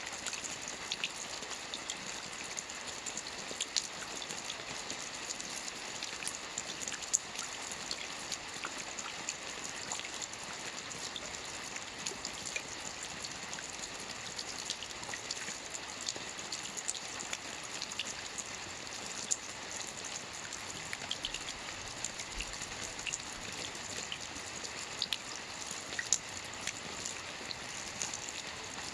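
Steady rain falling on water: a constant hiss with many small drop ticks scattered through it.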